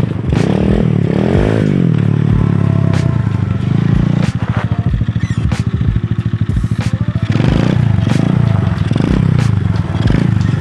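Chinese 110cc pit bike's single-cylinder four-stroke engine being ridden, revving up and down as the throttle is worked, with a rise and fall in pitch about a second in and more swings later on.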